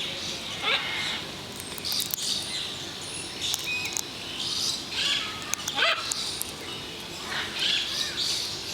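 Bird calls, a few short ones sweeping quickly down in pitch, with sharp clicks scattered between them.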